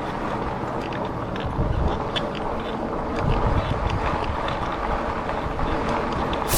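Riding noise picked up by a chest-mounted action camera on a moving e-bike: a steady rumble of wind on the microphone and tyres on the path, with scattered light ticks and rattles from the bike.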